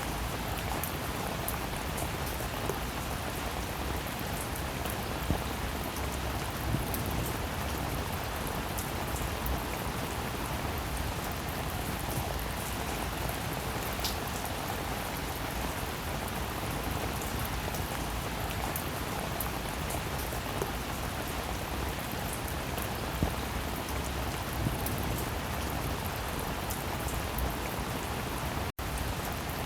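Steady heavy rainfall with individual drops ticking through it. It cuts out for an instant near the end.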